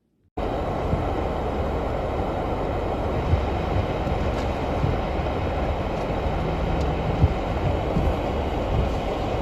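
A steady, loud rumbling noise that cuts in suddenly just after the start, with a few faint thumps in it.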